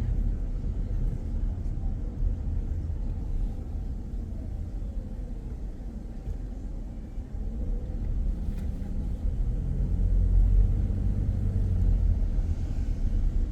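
Car on the move: a steady low rumble of road and engine noise that grows louder about eight seconds in.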